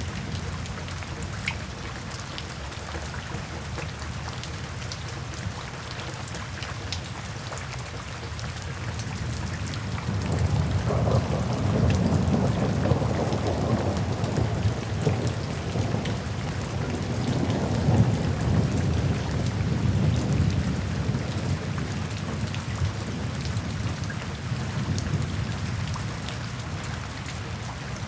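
Steady rain falling, with a long low rumble of thunder that rolls in about a third of the way through and slowly dies away.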